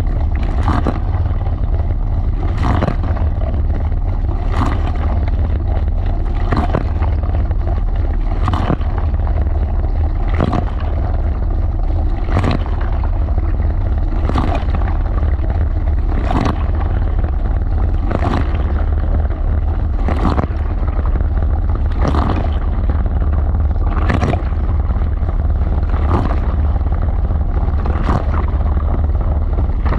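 LG washing machine drum turning with a wet load, heard from inside the drum: a steady low rumble, with a slosh or thud about once a second as the load tumbles.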